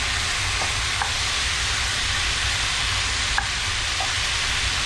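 Diced tomatoes frying in a hot pan with garlic and jalapeño, a steady sizzle as they are stirred, with a few light clicks.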